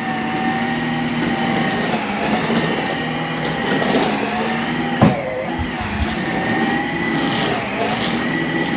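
Dyson V15s Detect Submarine cordless stick vacuum running with its wet roller head as it mops across a hard floor: a steady motor whine, with one sharp knock about five seconds in.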